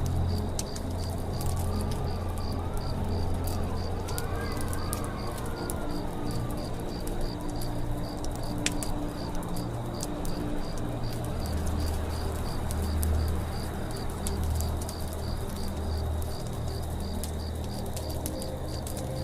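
Campfire crackling with scattered sharp pops, over a forest background of birds: a dove cooing and a whistled gliding birdcall early on. A high chirp repeats steadily about twice a second throughout.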